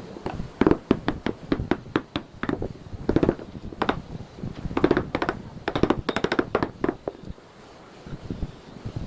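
Irregular sharp taps and knocks on wood, some in quick clusters, with a pause of about a second and a half near the end.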